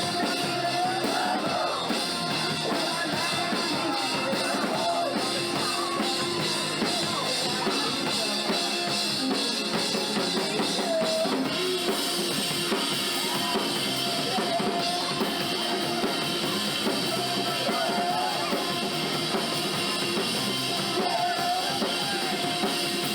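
A rock band playing a song live, with a drum kit and bass drum carrying the beat under pitched instrument lines.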